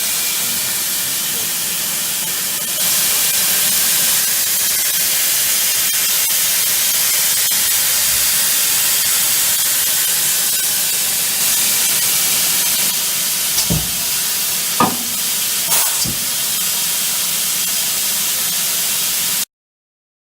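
Chiron FZ 12 W high-speed vertical machining centre running with a loud, steady hiss, and a few short knocks about fourteen to sixteen seconds in. The sound cuts off abruptly near the end.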